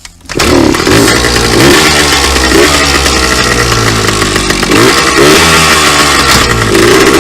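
Two-stroke dirt bike engine catching a moment in and running loudly, revved up and down over and over.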